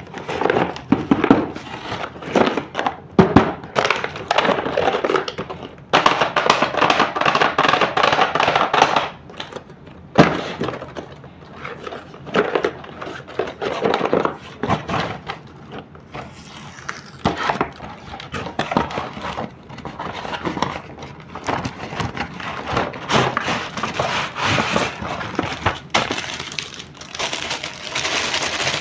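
Toy playset packaging being opened and handled by hand: plastic and cardboard crackling and crinkling, with clicks and light knocks, and a long stretch of dense crackling a few seconds in.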